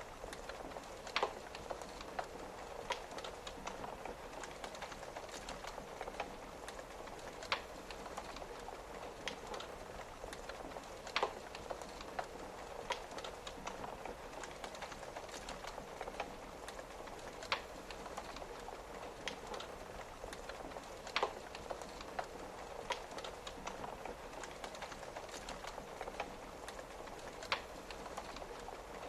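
Wood fire crackling, with sharp pops every few seconds, over the steady patter of rain on a window.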